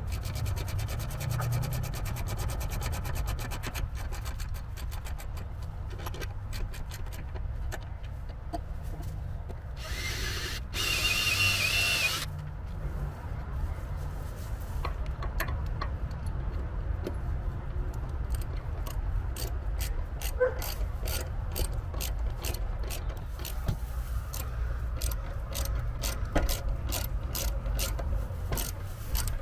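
Ratchet wrench clicking in quick runs, with short pauses, as bolts are tightened on solar panel ground-mount brackets. A two-second hiss comes about ten seconds in.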